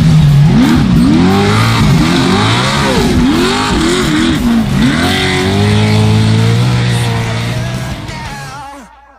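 Trophy truck race engine revving hard, its pitch swinging rapidly up and down under quick throttle changes. It then holds one longer rising pull before fading away near the end.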